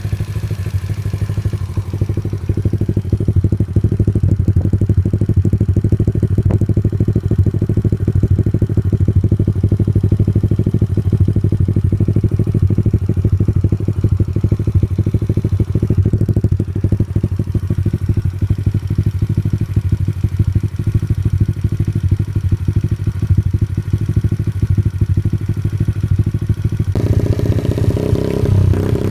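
2009 Sky Team RC50F pit bike's 50cc single-cylinder four-stroke engine idling steadily with an even, fast pulse from the exhaust. Near the end the engine note gets fuller, as if the throttle is opened slightly.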